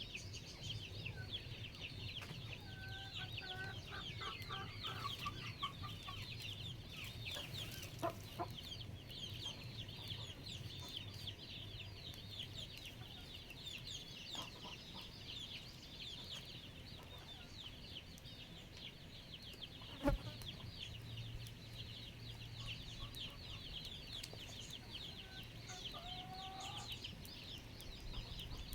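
Backyard chickens clucking in short runs a few seconds in and again near the end, over a dense, unbroken high chirping chorus. A sharp knock stands out about twenty seconds in.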